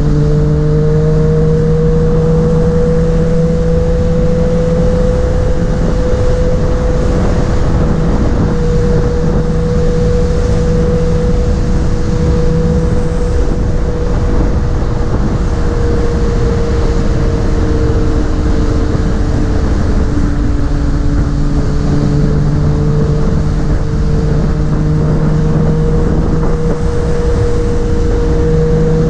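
Yamaha MT-09's inline three-cylinder engine running at a steady cruise, its pitch drifting only slightly, under heavy wind rush from riding at speed.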